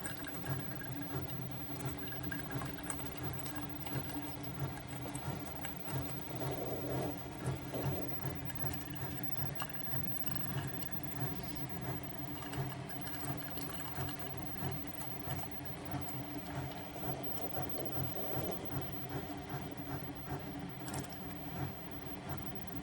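SiFENE single-serve coffee maker running through a brewing cycle, its pump giving a steady, rapidly pulsing buzz.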